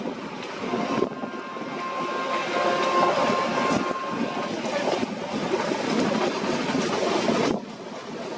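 Train running along the track: a steady noisy rumble of wheels and cars, with a thin steady tone for a few seconds starting about a second in. The sound drops off suddenly near the end.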